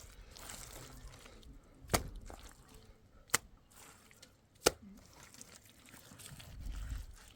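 Three sharp knocks, evenly spaced about a second and a half apart, over a faint background.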